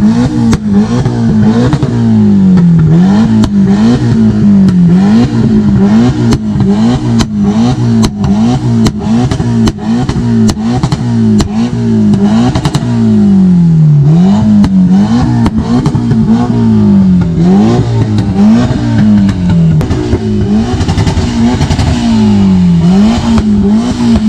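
A car engine revved over and over, its pitch jumping up on each throttle blip and sinking back before the next, every second or two, with frequent sharp cracks throughout.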